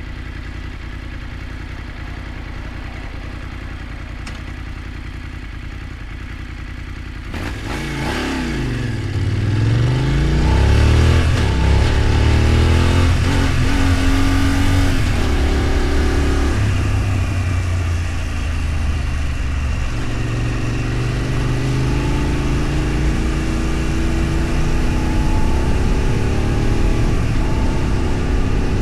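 A vehicle engine running steadily at low revs, then revving up about seven seconds in and accelerating. Its pitch climbs, drops back and climbs again several times as it works up through the gears.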